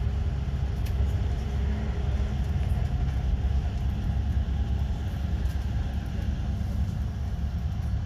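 Steady low rumble of a regional train running along the track, heard from inside the passenger carriage.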